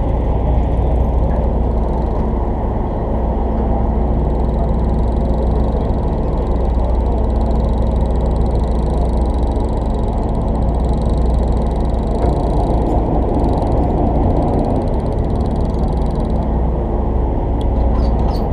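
Boat engine running steadily, a low drone with a rushing noise over it that stays level.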